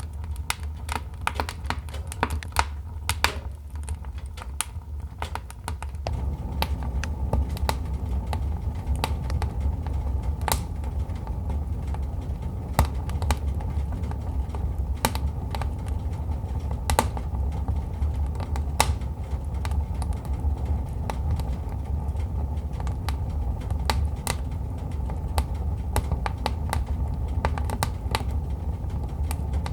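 Wood fire crackling, with irregular sharp pops and snaps over a low, steady rumble of burning that grows louder about six seconds in.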